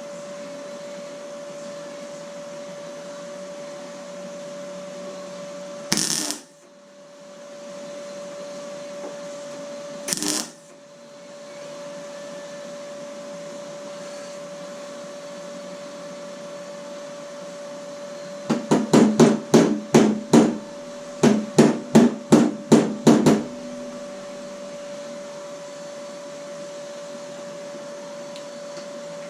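A hammer knocking on the steel of a car door panel: two single knocks, then two quick runs of sharp strikes, about fifteen in all. A steady hum runs underneath.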